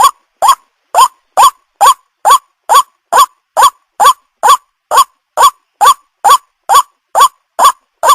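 White-breasted waterhen (Amaurornis phoenicurus) call played as a lure: a loud, monotonous string of identical short notes, each rising in pitch, repeated evenly a little over twice a second.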